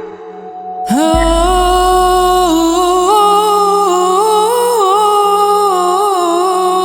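A young girl's solo voice sings one long wordless note line over a backing track with a steady low drone. The voice comes in about a second in and moves through small ornamented steps and wavers in pitch.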